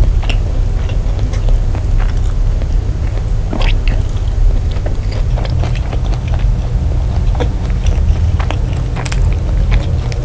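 Close-miked chewing of a mouthful of nasi padang rice and chicken, with scattered wet smacks and clicks of the mouth, over a steady low rumble.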